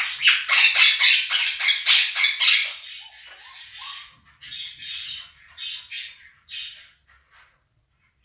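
Quaker parrots (monk parakeets) screaming in a rapid series of harsh squawks, about five a second, for the first three seconds, then dropping to quieter, scattered calls and chirps that fade out near the end.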